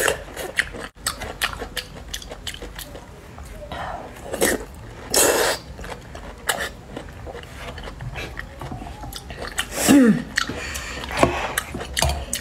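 Close-up eating sounds of soft canned yellow peach slices in syrup: wet chewing and slurping with scattered light clicks, and a brief falling hum near the end.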